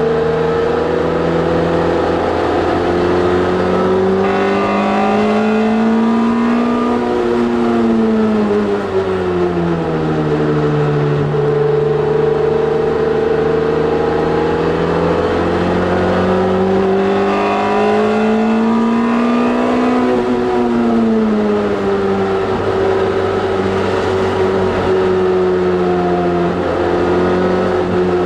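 A car's engine being driven hard on a race track, its revs climbing slowly under acceleration and falling away twice, about eight and twenty seconds in, as the driver comes off the throttle, with steady road noise underneath.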